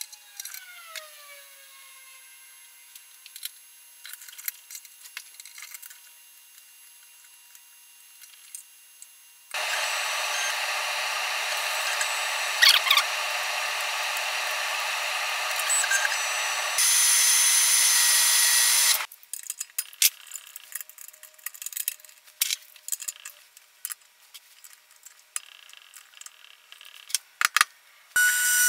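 Metal clicks and knocks as a milling vise is slid into place and adjusted on a small benchtop mill's table. They are broken by about nine seconds of loud, steady machine noise that turns higher and harsher for its last two seconds and then stops abruptly.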